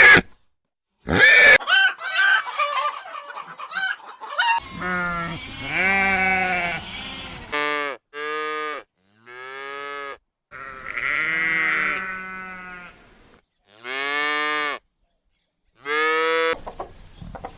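Squawking bird calls for the first few seconds, then sheep bleating, about seven separate wavering bleats of varying length with short pauses between.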